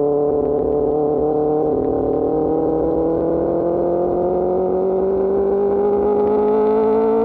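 Superbike engine through an Austin Racing GP1R exhaust, pulling steadily under load in one gear, its note rising slowly as the bike speeds up, just after a gear change.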